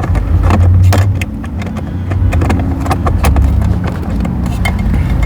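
Irregular clicks and knocks of a diagnostic interface being handled and plugged back in, over a steady low rumble.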